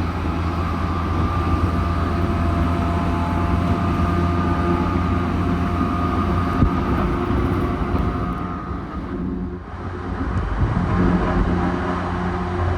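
Electric commuter train running, a steady rumble with a faint motor whine over it; the sound dips briefly just before ten seconds in, then the rumble picks up again.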